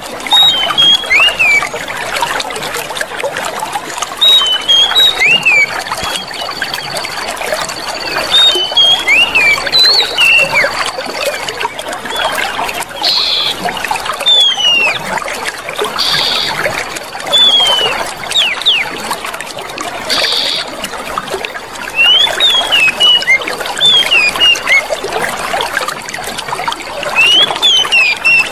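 Clear water trickling and flowing steadily, with birds chirping in short clusters of quick falling whistled notes every few seconds. A thin, steady high tone sounds for part of the time.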